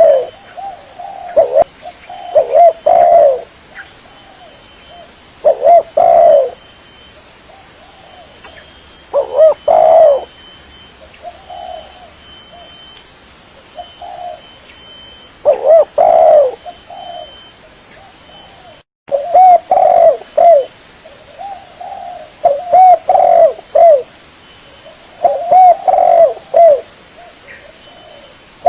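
Spotted dove (tekukur) cooing: repeated phrases of several low, mellow notes, with pauses of a few seconds between phrases. The sound cuts out for a moment about two-thirds of the way through.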